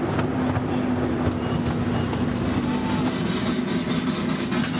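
Casey Jr. Circus Train, a miniature amusement-park train, running along its track, heard from aboard one of its open cars: a dense, steady rattle and clatter of wheels and cars over a constant low hum.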